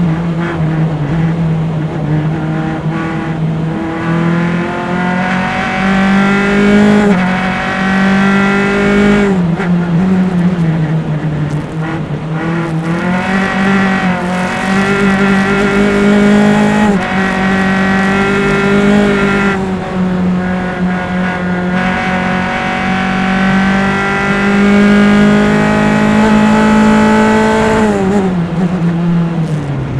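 Single-seater race car's engine under hard acceleration, heard close up from engine-mounted mics. Its pitch climbs slowly on long pulls and falls off sharply about nine seconds in, briefly around twenty seconds, and again near the end, where the driver lifts and brakes for corners.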